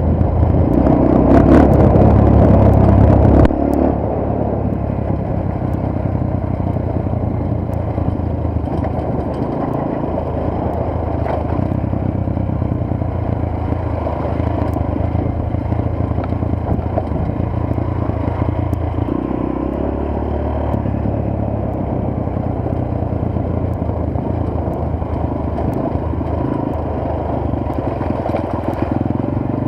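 Motorcycle engine running on the move, picked up through an action camera, with light clattering. It is louder for the first few seconds, then drops suddenly to a steadier, lower note for the rest.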